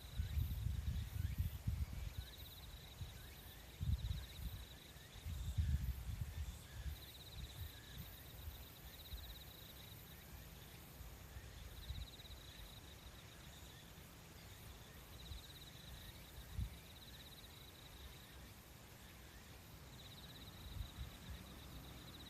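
An insect trilling in short pulsed phrases of about a second each, repeating every two to three seconds. A low, uneven rumble comes and goes under it during the first several seconds, then fades.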